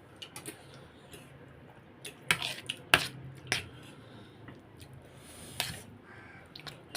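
Eating sounds at a bowl of ramen: utensils clicking and knocking against the dish. There are a few sharp knocks between about two and three and a half seconds in, the loudest near three seconds.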